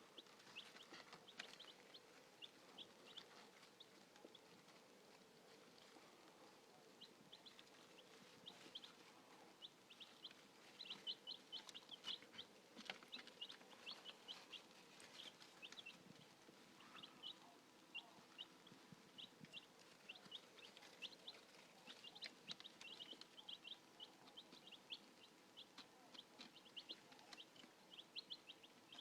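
Very young chicks peeping: many short, high peeps, often in quick clusters, faint throughout and busier from about a third of the way in.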